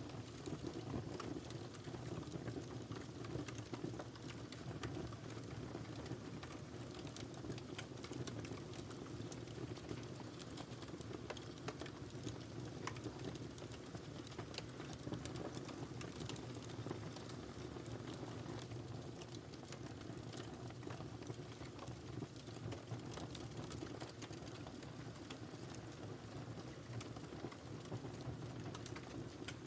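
Wood fire crackling in a fireplace: a steady low rumble of burning with a constant scatter of small pops and crackles.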